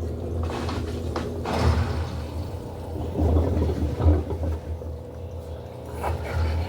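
Electrolux LED14 washing machine running its wash cycle: a steady low motor hum with irregular swishes of water and laundry, loudest about two seconds and four seconds in.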